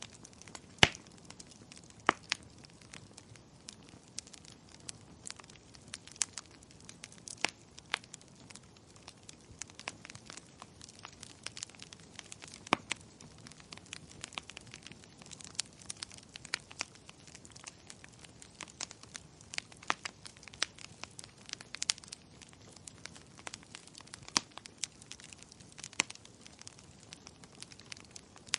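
Fireplace fire crackling: irregular sharp pops and snaps over a soft steady hiss, a few of them much louder, the loudest about a second in.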